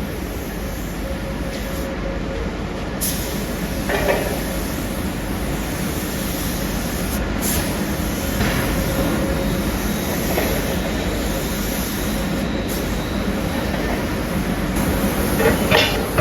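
Steady drone of factory machinery with a few short metal knocks: one about four seconds in, a couple in the middle and a cluster near the end.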